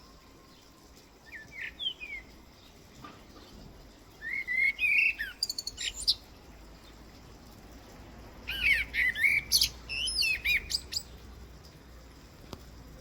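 Songbird singing: three bursts of quick chirps and whistled notes, the longest phrases about four and nine seconds in.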